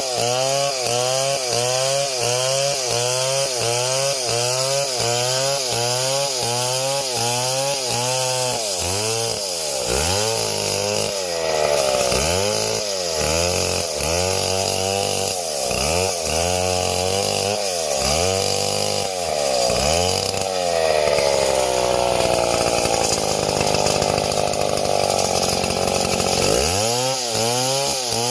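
Two-stroke chainsaw running hard with its engine pitch rising and falling in regular swells, about two a second at first, then more slowly. It then holds a steady high pitch for several seconds before dropping near the end.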